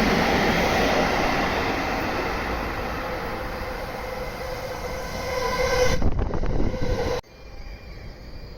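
A train running through the station at speed, with loud wheel-on-rail noise and a steady multi-tone whine that slowly fades as it goes past. About six seconds in there is a quick run of sharp clacks from the wheels crossing rail joints, then the train noise cuts off suddenly, leaving quiet station background.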